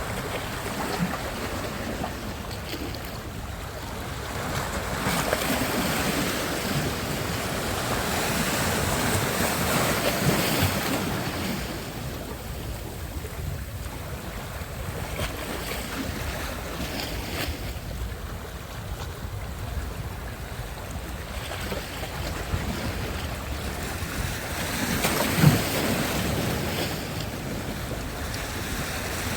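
Sea surf: waves washing onto the shore, swelling louder and fading back twice, with wind buffeting the microphone and a short bump near the end.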